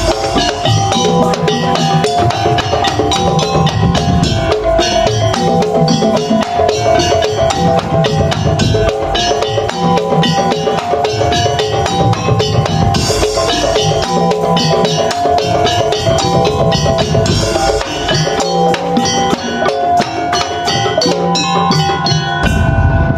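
Madurese tong-tong (ul-daul) ensemble playing: drums and wooden percussion beat a fast, dense rhythm under a steady melodic line. The sound changes abruptly near the end.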